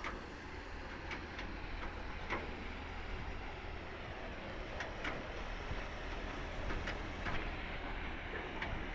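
Steady low hum of a truck engine with scattered light clicks and rattles at uneven intervals.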